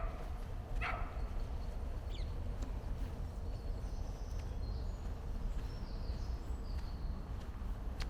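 A dog barking twice, right at the start and again just under a second later, then faint high bird chirps, over a steady low outdoor rumble.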